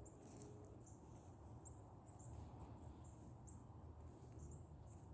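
Near silence with faint, short, high-pitched chirps repeating about twice a second over a low outdoor rumble.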